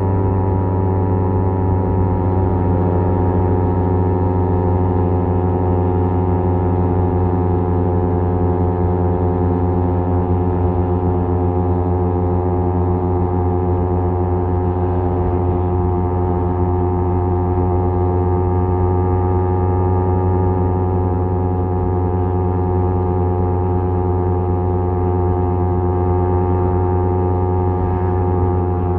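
Kawasaki Z250's parallel-twin engine running through a SeaPro aftermarket muffler at steady cruising revs: an even, unwavering exhaust note that holds the same pitch throughout.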